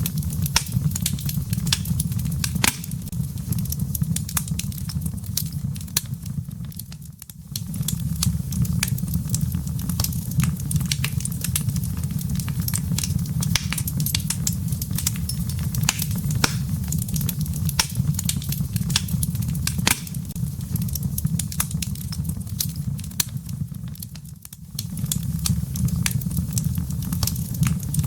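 Wood fire burning in a fireplace: a steady low rumble of flames with frequent sharp crackles and pops of the burning firewood. The sound dips briefly twice, about seven seconds in and near the end.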